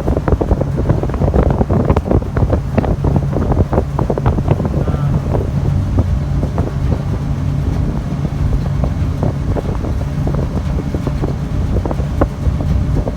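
Wind buffeting the microphone in irregular crackling gusts over the steady low drone of a car ferry's engines.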